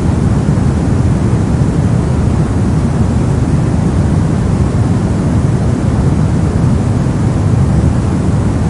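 Brown noise: a steady, deep, even hiss with most of its weight in the low rumble and little treble, unchanging throughout.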